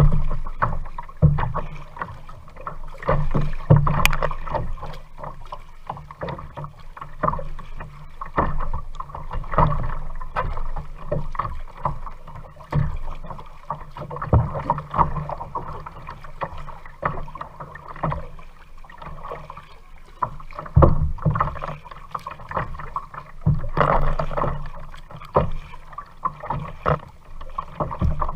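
Kayak being paddled: water splashing and sloshing with the paddle strokes, with many irregular knocks and bumps.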